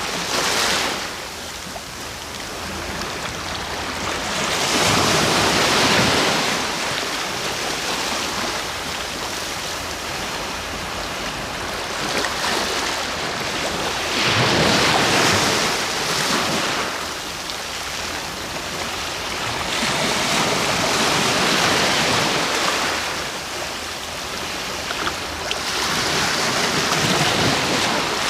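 Sea waves breaking and washing ashore as a steady rush of surf. It swells up and falls back about five times, roughly every five to six seconds.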